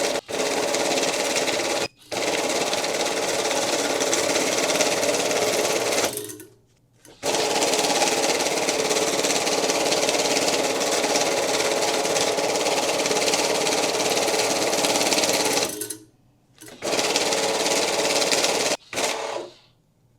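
Electric banknote counting machine running, riffling bills through with a fast, steady mechanical flutter. It stops briefly several times as stacks are loaded.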